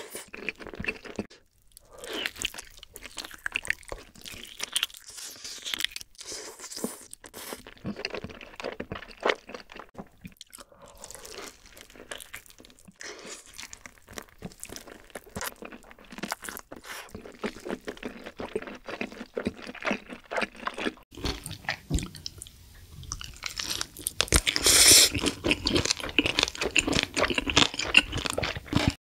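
Close-miked chewing and biting of chicken: a dense run of small crunchy, wet clicks. The chewing grows louder and crunchier near the end.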